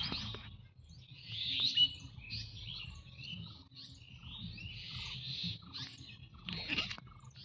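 Small birds chirping and calling over and over, short high calls coming about once or twice a second with a brief whistled note among them.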